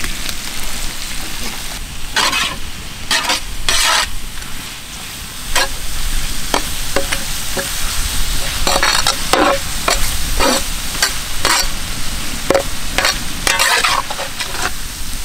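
Onions and chopped tomatoes sizzling in hot oil in a large wok, with a metal spatula scraping and knocking against the pan at irregular moments as it stirs.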